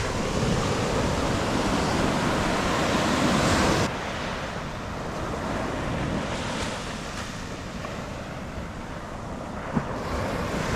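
Surf washing on a beach, with wind buffeting the microphone. The noise is louder at first, drops suddenly about four seconds in, and a short tap sounds near the end.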